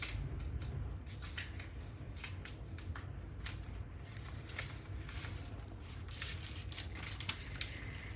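A sheet of paper being folded and creased by hand: a scattered run of short crinkles and rustles, over a steady low hum.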